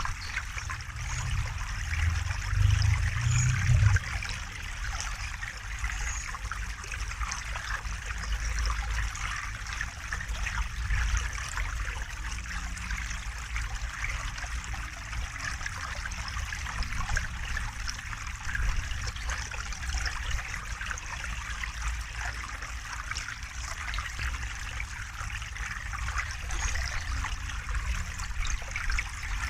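River water flowing and trickling steadily over stones, with a low rumble underneath that swells briefly between about 1 and 4 seconds in.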